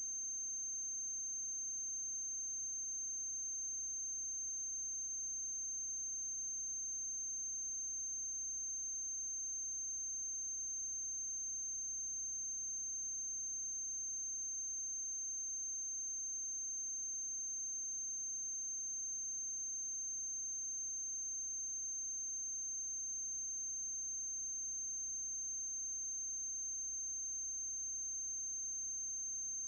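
Steady high-pitched electrical whine over a faint low hum and hiss, unchanging throughout: noise on the soundtrack of a silent film transfer.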